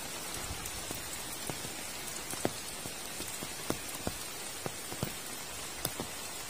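Heavy rain falling steadily, with single close drops landing as sharp, irregular ticks about every half second.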